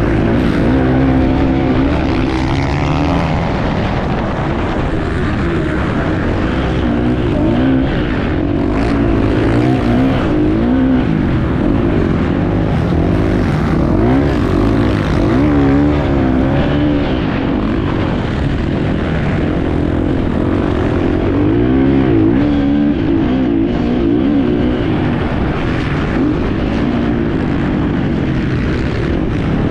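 Enduro motorcycle engine heard from the bike itself, its revs rising and falling continually as the rider accelerates and backs off over the course.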